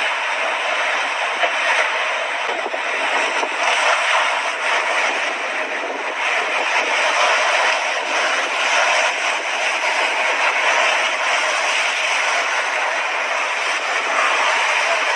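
Mediterranean Sea waves washing onto the shore: a steady rush of surf that swells and eases slightly.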